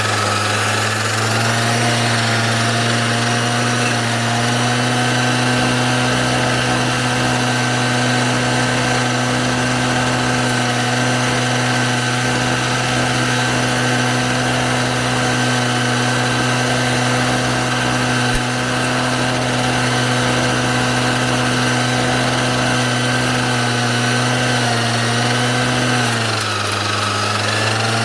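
Small engine of a self-propelled mower running steadily at high speed, its pitch rising at the start, sagging briefly near the end and then recovering.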